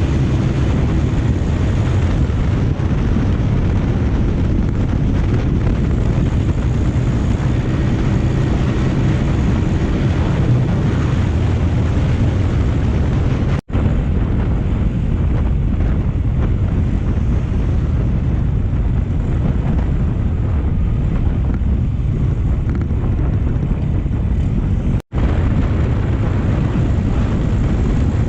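Motorcycle riding along: a steady engine note under heavy wind noise on the microphone, broken twice by a brief dropout, once about halfway and once near the end.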